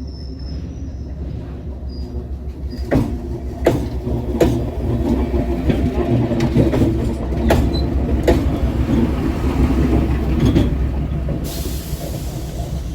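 OHE inspection van running over a railway bridge: a steady low rumble with a series of sharp clacks as its wheels cross rail joints, growing louder through the middle. A high hiss comes in near the end.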